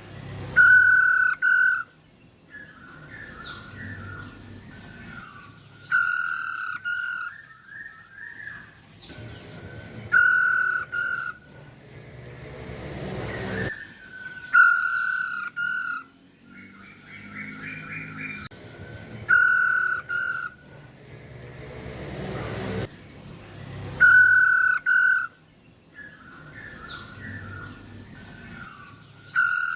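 Female masked laughingthrush (Hong Kong poksay) calling: a loud, steady call repeats about every four to five seconds, seven times, with softer chattering chirps in between.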